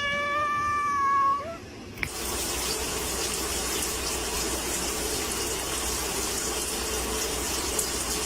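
A cat gives one long meow lasting just over a second. About two seconds in, water starts running steadily, like a tap.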